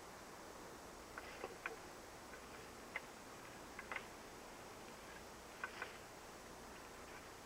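A few faint, sharp clicks and snaps, spaced irregularly over a quiet steady hiss.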